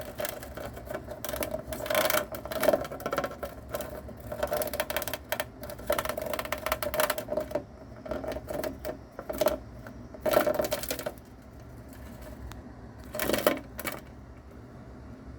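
Cicada buzzing in rapid, rattling bursts as a mouse attacks it, the insect's distress buzz. The louder bursts come about two seconds in, about ten seconds in and near the end.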